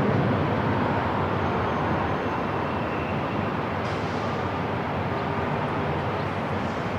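Airport ambience: a steady, even rumble and hiss, with faint steady tones over it and a small click about four seconds in.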